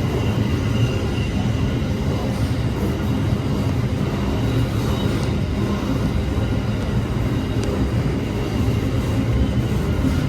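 A long freight train of empty wagons passing, with the steady noise of its wheels running over the rails.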